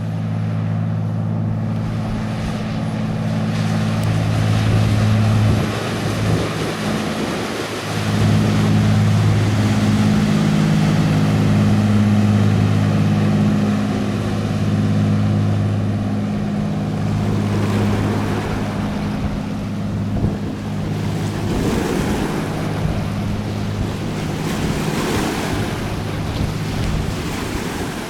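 Diesel engine of a fishing boat running as it passes close by, a steady low drone, with wind gusting on the microphone in the later part.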